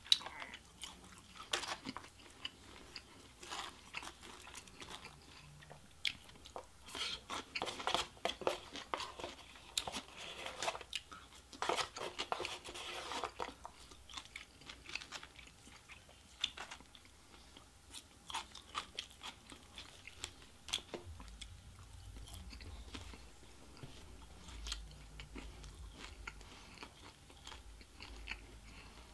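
A person chewing and biting takeout food, with repeated crunches and small mouth clicks, busiest in the first half and sparser later.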